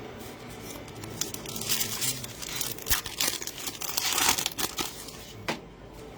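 A plastic-foil trading card pack wrapper crinkling and being torn open, in a run of crackling bursts that is loudest near the end, then a single sharp click.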